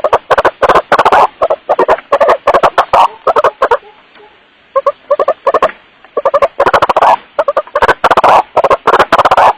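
White-breasted waterhen's repeated 'wak-wak' calls, a bird-luring recording played so loud that it clips. The calls come in quick pulsing runs, with a short pause about four seconds in.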